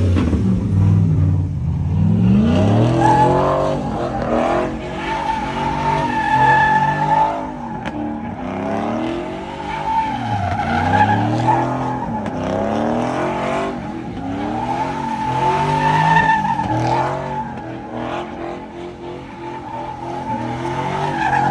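Truck burnout: the engine revs up and down over and over while the spinning tyres squeal with a steady high tone.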